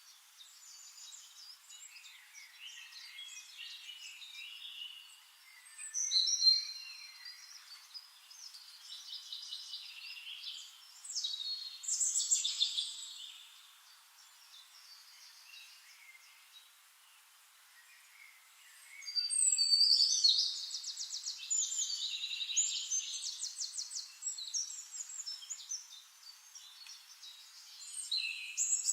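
Songbirds singing in separate bouts of chirps and fast trills, with the longest and loudest stretch of song about two-thirds of the way through.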